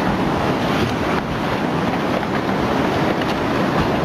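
Loud, steady rush of surging water, a dense continuous noise with no single events standing out.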